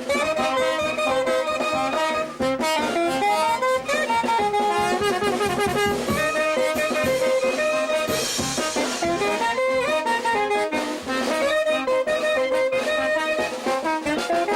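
A brass band playing live, saxophones and trumpets carrying a melody over trombones, loud and continuous, with a brief high hiss about eight seconds in.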